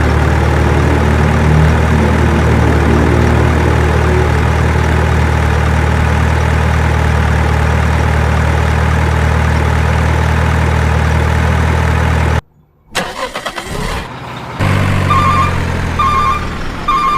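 Heavy diesel earthmoving machinery running at a steady, constant speed. About twelve seconds in, the sound cuts off abruptly. An engine then runs again, and near the end a reversing alarm beeps a little more than once a second.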